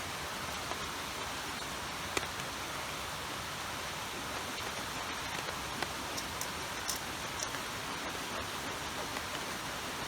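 Steady hiss of running or falling water, with a few sharp ticks scattered through it.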